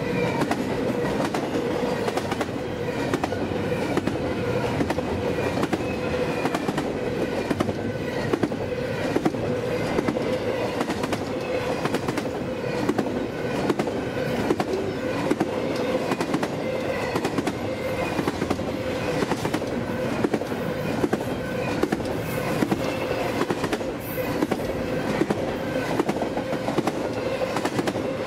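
Intermodal freight train's cars rolling steadily past: continuous wheel-on-rail rumble with a quick, uneven clickety-clack of wheels over rail joints and a steady tone under it.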